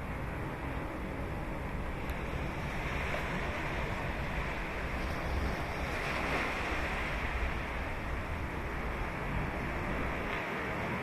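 Ocean waves breaking and washing on a sandy beach, a steady surf wash that swells about halfway through, with low wind rumble on the microphone.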